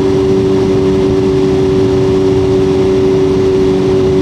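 Motorcycle engine running at a steady speed, its pitch unchanging, over a constant low rumble.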